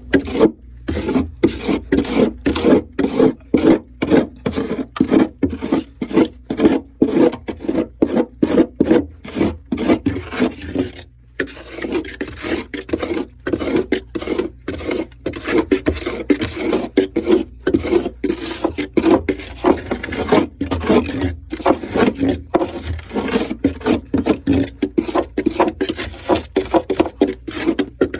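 Frost crunching in quick, rhythmic bursts about two or three a second, with a brief pause partway through.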